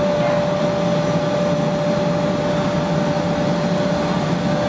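Chili powder roller milling machine running steadily: an even mechanical drone with a single constant whine held over it.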